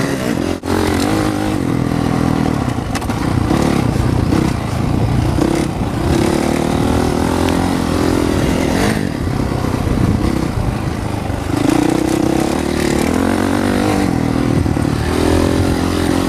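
Honda CRF450R dirt bike's single-cylinder four-stroke engine revving up and down as it is ridden hard around a motocross track.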